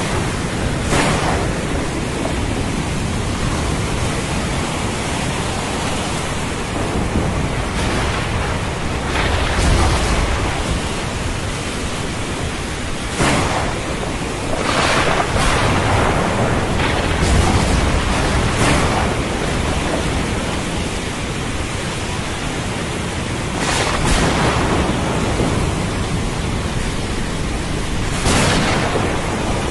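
Thunderstorm over the sea: steady rain and surf, with thunder rumbling low about ten seconds in and again around seventeen seconds, and brief sharp hissing surges now and then.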